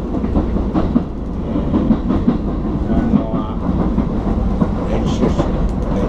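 Commuter train running on the rails, heard from inside the carriage: a steady low rumble with scattered short knocks from the wheels and car body.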